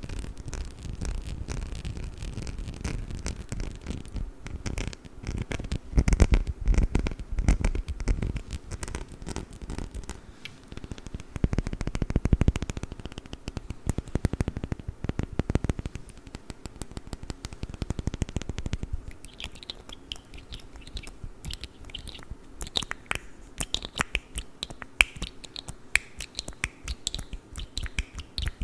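Fingernails tapping and scratching on a perfume bottle close to the microphone, a dense run of clicks and scrapes. The heavier thumps give way to lighter, sharper taps about two-thirds of the way in.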